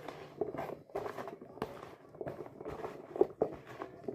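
Hands tossing and rubbing seasoned food in a bowl: irregular soft knocks and rustling, with two sharper knocks about three seconds in.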